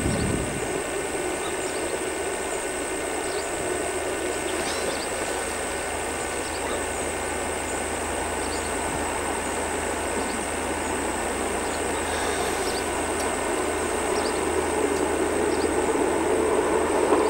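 Distant locomotive-hauled train approaching, its engine and running noise a steady rumble that grows gradually louder over the last few seconds.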